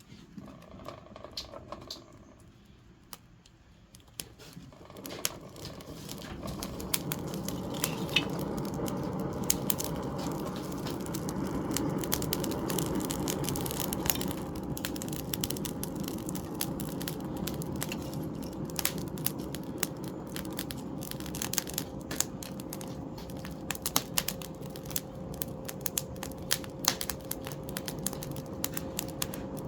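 A forge fire building up about four seconds in, then burning with a steady rushing noise and many sharp crackles.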